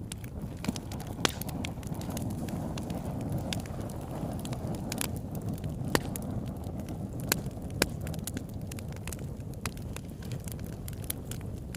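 Campfire burning: a steady low rush of flames with irregular sharp crackles and pops from the burning wood, the loudest pops about a second in and near six seconds.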